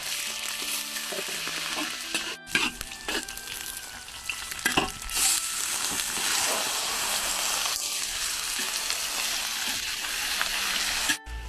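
Chicken pieces with ginger frying in hot oil and chicken fat in an iron wok, sizzling steadily while a spatula stirs and scrapes them, with a few sharper clacks. The sizzle cuts off suddenly near the end.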